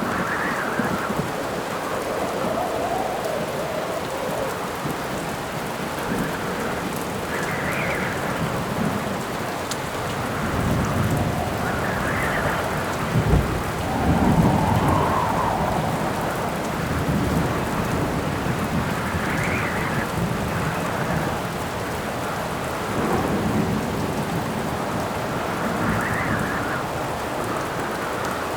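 Steady rain with wind rising and falling in swells every few seconds, and thunder rumbling about halfway through after a short crack.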